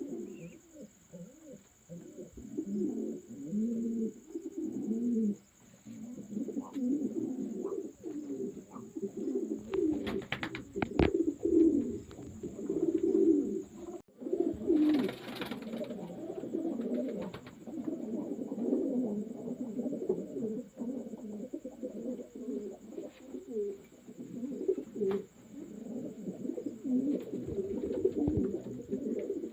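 Many pigeons cooing at once, their low coos overlapping without pause. A few sharp clicks come about a third of the way in, and a brief rustling burst about halfway through.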